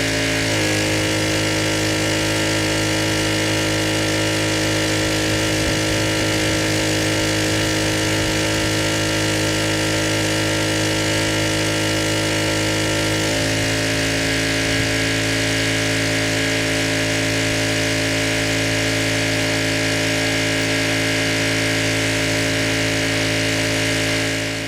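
Gas pressure washer's engine running steadily, its pitch shifting slightly twice.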